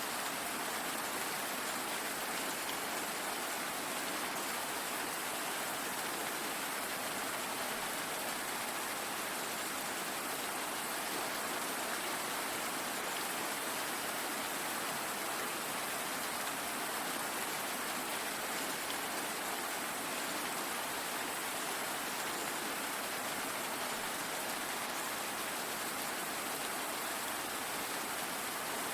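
Steady, even rain falling, with no thunder or distinct drops standing out.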